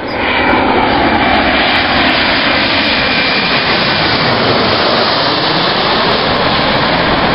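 Jet airliner's engines at high power passing close by: a loud, steady rush with a faint whine that shifts in pitch as the aircraft goes past.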